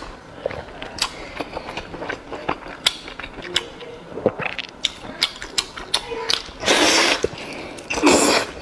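Close-miked eating: wet chewing, lip-smacking and mouth clicks while a meat-stuffed pouch is torn and eaten. There are two louder breathy mouth sounds near the end, about a second apart.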